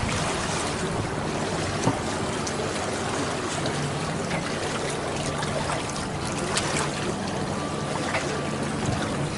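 Water rushing and splashing along the hulls of a sailing catamaran under way in gusty wind: a steady, even rush.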